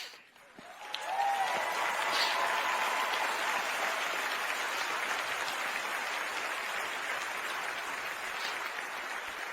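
Large audience applauding, building up about a second in and then holding steady.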